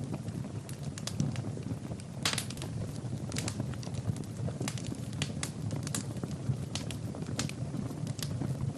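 Wood fire in a fireplace crackling, with irregular sharp pops and snaps over a steady low rumble of the flames; one louder pop comes about two seconds in.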